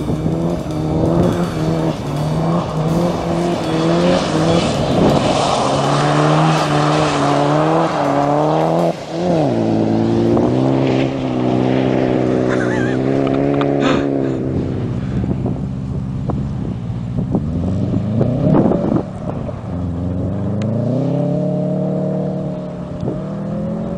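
Subaru Impreza's flat-four engine revving hard on ice, the pitch climbing and dropping again and again as the car slides and spins its wheels, with a sharp drop and climb about nine seconds in.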